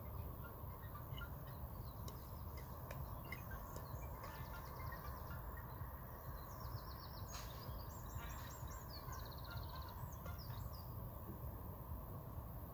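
Small birds calling, with several fast trills of repeated high notes in the middle stretch, over a steady low background rumble. There is one sharp click about seven seconds in.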